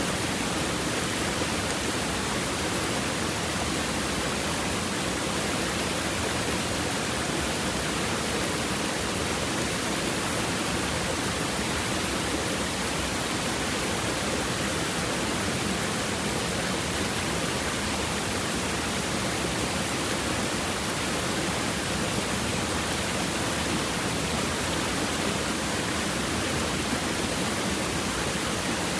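River water babbling and rushing over stones, a steady, unbroken flow.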